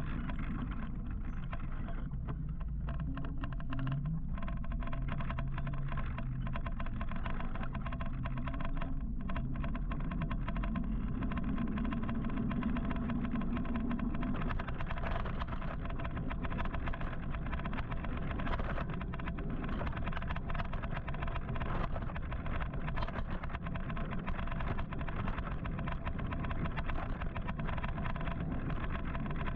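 Steady wind and city traffic noise heard from an electric motorcycle on the move, with a low rumble and no sudden events.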